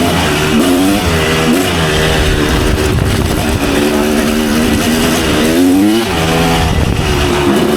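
Kawasaki KX250 dirt bike engine under hard throttle, its pitch climbing and dropping several times as it revs out and shifts, with a brief dip in revs just before the end.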